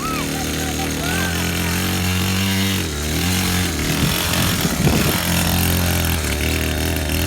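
Small motocross bike engine running steadily. Its pitch dips about three seconds in, then wavers unevenly for a second with throttle changes before settling again.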